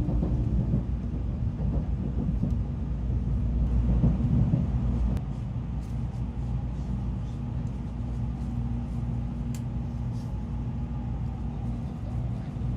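Tokaido Shinkansen train running, a steady low rumble that drops to a quieter, even level about five seconds in.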